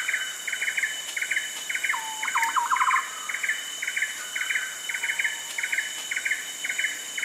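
Rainforest ambience: a bird repeats a short call about twice a second over a steady, high insect drone. A second bird gives a brief, quickening series of lower notes about two seconds in.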